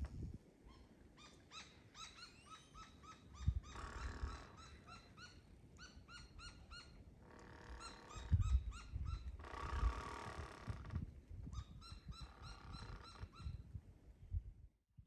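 Birds calling in bare trees: rapid runs of short, repeated chirping notes, with a rushing noise swelling up three times.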